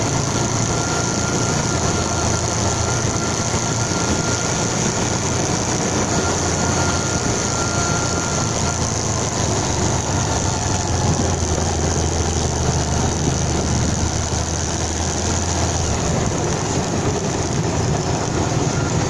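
Motorcycle engine running steadily, a low even drone under a constant haze of noise. A thin high whine fades out about halfway through, and the low drone eases slightly near the end.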